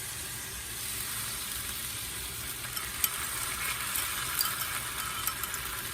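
Vegetables and sauce sizzling on an electric grill, a steady crackling hiss with scattered small pops.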